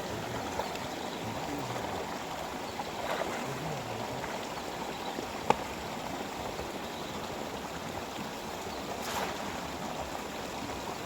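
River water flowing steadily, a constant rushing hiss, with one sharp click about halfway through.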